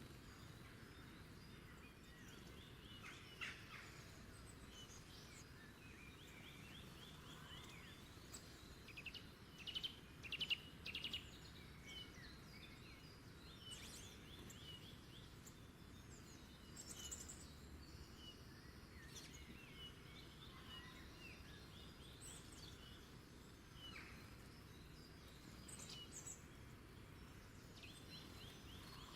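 Several wild birds chirping and trilling, with short rapid trills and a cluster of louder calls about ten seconds in, over a faint steady low background hiss.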